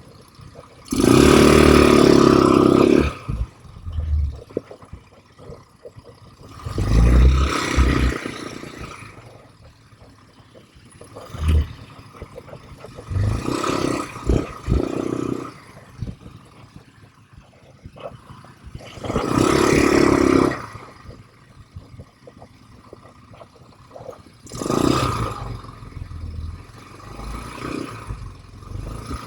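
ATV engine revving in repeated surges, about five loud bursts a few seconds apart with quieter running between.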